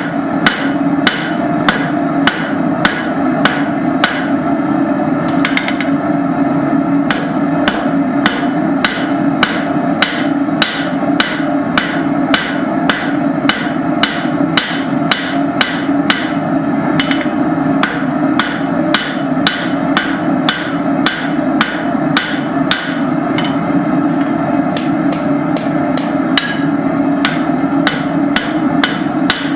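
Hand hammer striking hot steel bar on an anvil at a steady pace, about two blows a second, drawing out a taper, over a steady hum.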